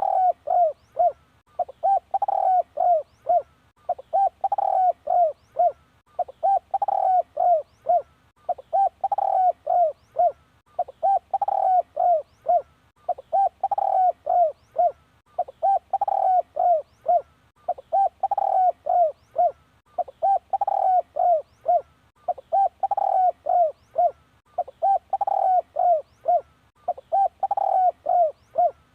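Spotted dove cooing: the same phrase of several short coos repeats about every two seconds. It is a lure call of the kind used to draw wild doves in.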